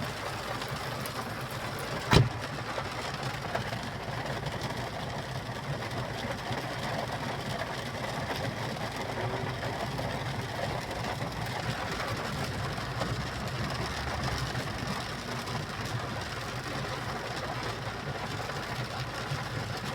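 Vehicle engine running steadily with road noise while driving, with a single sharp knock about two seconds in.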